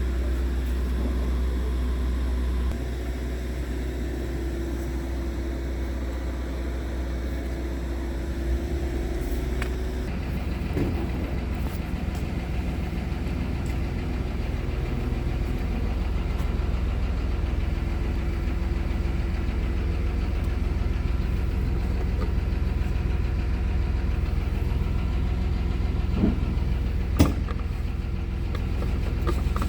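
Scania R tractor unit's diesel engine idling steadily, with two sharp clicks near the end.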